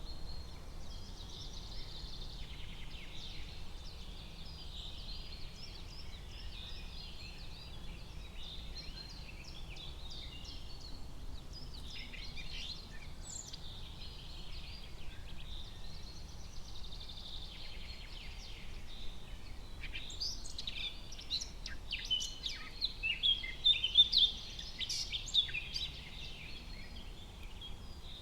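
Forest ambience of many small birds chirping and calling together, with a denser, louder run of quick sharp chirps from about twenty seconds in.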